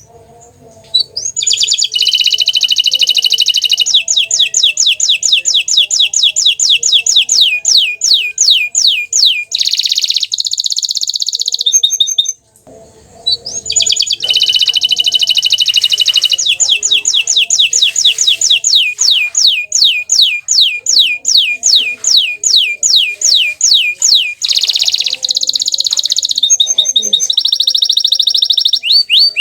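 Green domestic canary singing loud, high-pitched song in two long phrases, with a brief pause about twelve seconds in. The song is made of rapid trills of repeated falling notes and buzzy rolls.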